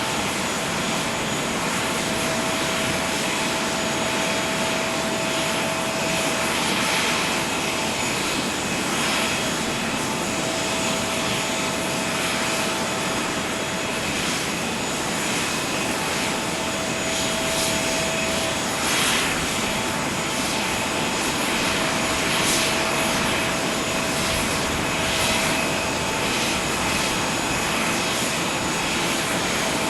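Airbus A321neo jet airliner making a steady rushing whine, with a held mid-pitched tone and a high whistle over it. A few brief hissy swells come and go in the second half.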